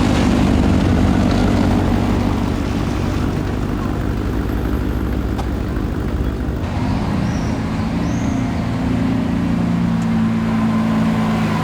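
Lamborghini engine running loud and steady as the car leaves the meet. About seven seconds in, the hissy high end falls away and a lower, steadier engine note takes over.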